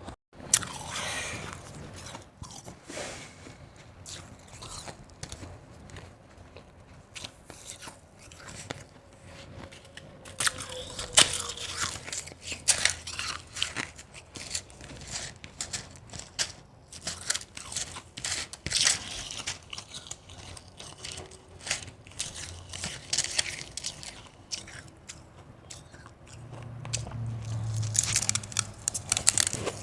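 Ice being bitten and chewed in big bites close to the microphone: irregular sharp crunches with softer chewing between them.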